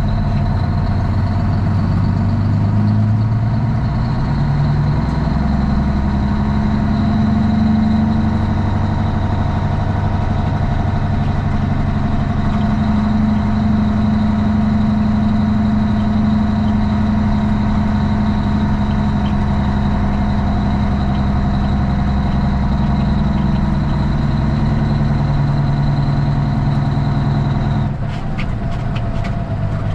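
Straight-piped Cummins ISX inline-six diesel truck engine running steadily, its pitch climbing over the first few seconds and then holding, with a faint steady high whine above it. About two seconds before the end the engine note drops suddenly, with a few clicks.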